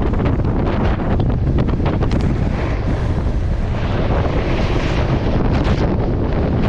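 Strong wind buffeting the microphone: a loud, steady low rumble, with a few brief crackles around two seconds in and again around five seconds in.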